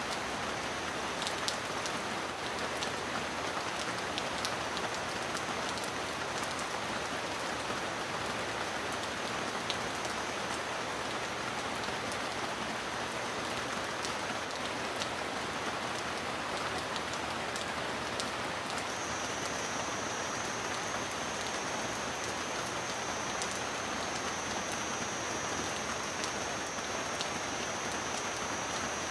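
Steady heavy rain: a dense, even hiss with scattered sharp drop ticks.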